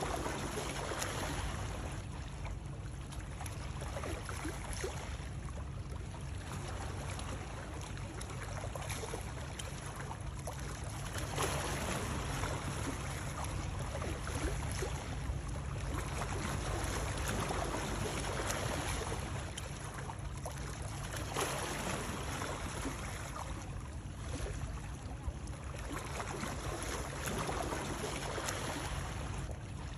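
Water sound played as white noise: a continuous rush with small splashes that swells and eases every few seconds.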